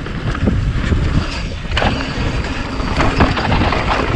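Wind buffeting a GoPro microphone over a steady low rumble, with scattered knocks and rattles of a mountain bike rolling over rocky trail.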